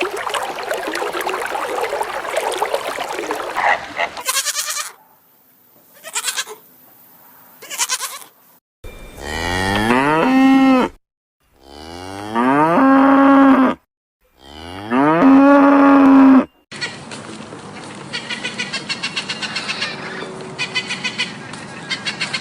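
Cow mooing three times, each long call rising in pitch and then holding steady; these are the loudest sounds. They are preceded by a stretch of noise with a few short sounds, and followed by noise with a quick, regular pulsing.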